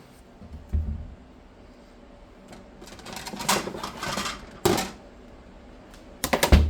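Kitchen handling noise as a plate is fetched: a thud about a second in, rustling and clicks in the middle, then a quick run of sharp knocks and clatter near the end as the plate is set down.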